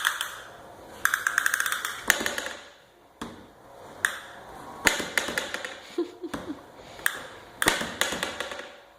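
Vacuum cleaner pushed by hand with no motor running, rattling and clicking in irregular bursts of quick taps with short pauses between.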